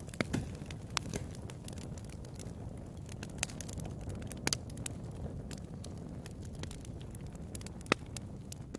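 Fire crackling in a fireplace: scattered sharp pops and snaps over a steady low rumble, with one louder pop near the end.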